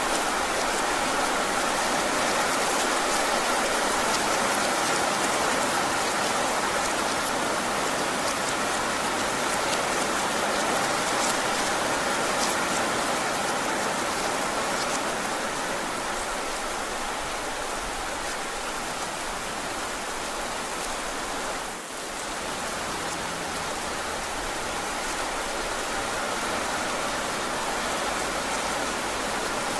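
Heavy rain falling steadily, an even hiss with a brief dip in level about two-thirds of the way through.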